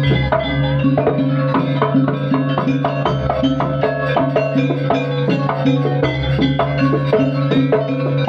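Banyuwangi jaranan percussion music: drums and struck pitched percussion playing a dense, fast rhythm over a steady low tone.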